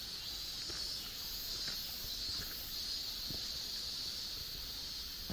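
Insects singing in the forest: a steady high buzz with a still higher chirp that swells and fades about twice a second. Faint scattered ticks sit underneath.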